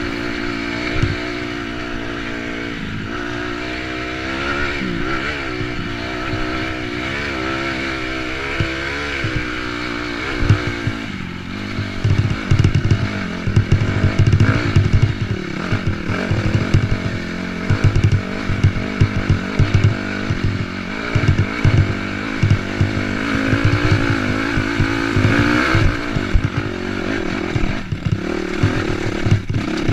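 Dirt bike engine running and revving up and down as the bike rides the trail. From about eleven seconds in, the engine note is mixed with irregular thumps and rattling.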